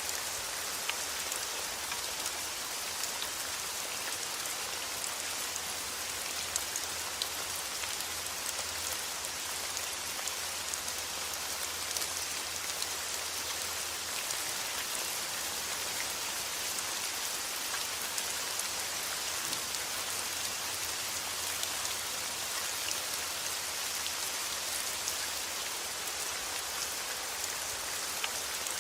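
Steady rain: a dense, even hiss with scattered sharp ticks of single drops, over a faint low rumble.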